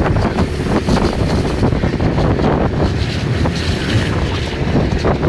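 Wind buffeting the microphone aboard a boat at sea, a loud, gusty rumble.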